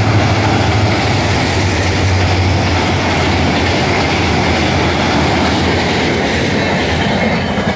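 Vistadome Express passenger train running past, the steady loud noise of its wheels on the rails with a low hum under it, dropping off just before the end.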